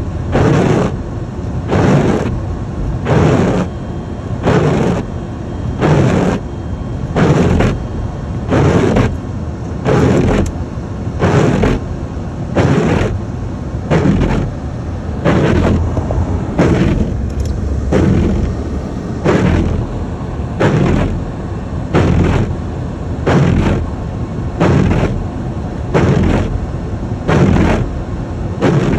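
Car windshield wipers sweeping snow off the glass at a steady rhythm, a loud swish about every 1.3 seconds, over the steady low rumble of the car.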